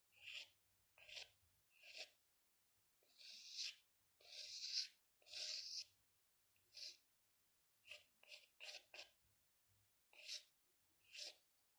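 Drawing strokes of a pen or pencil on paper: about a dozen short scratchy strokes with silence between them. A few longer, louder strokes come about three to six seconds in.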